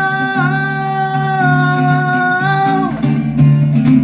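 A singer holds one long note over strummed acoustic guitar in a cover of a rock song; the note ends near three seconds in, leaving the guitar alone.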